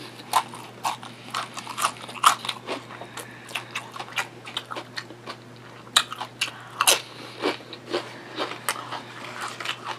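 Close-miked chewing of crunchy potato chips: a steady run of crisp crunches, loudest about two seconds in and again near seven seconds.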